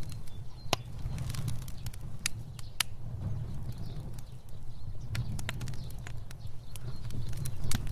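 Fire burning, a steady low rumble of flame with sharp crackles and pops at irregular moments.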